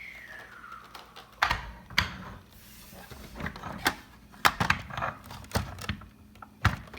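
Small plastic toys being handled and set down: a dozen or so sharp, irregular clicks and knocks of plastic on plastic.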